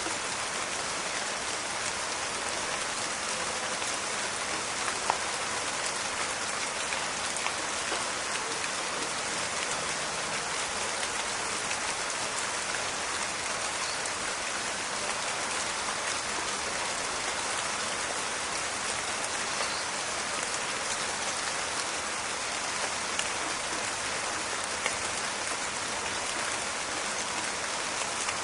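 Steady rain falling, a dense even hiss with scattered crackling drop ticks and one sharper click about five seconds in.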